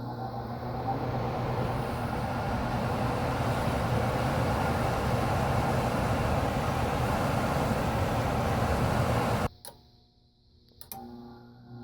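Furnace blower fan with a new motor running: a steady rush of air over a low hum, building up over the first second or two, then cutting off suddenly about nine and a half seconds in.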